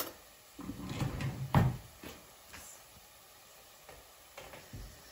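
Kitchen handling sounds: a sharp click at the start, then a clatter and a heavy knock about a second and a half in, as a spoon is fetched for the tomato paste, followed by a few faint taps.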